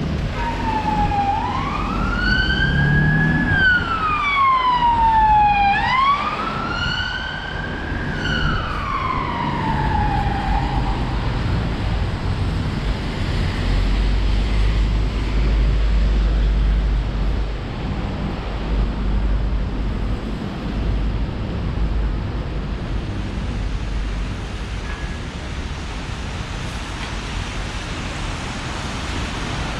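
An emergency vehicle siren wailing, rising and falling slowly about twice over the first ten seconds before dying away. Steady street noise and rain continue underneath, with a low rumble in the middle.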